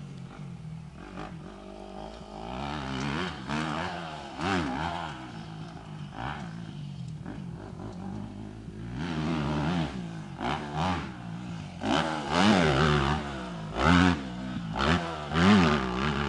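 Motocross motorcycle engine revving hard and dropping off again and again as it is ridden around the track, its pitch rising and falling with each burst of throttle. The loudest bursts come in the second half.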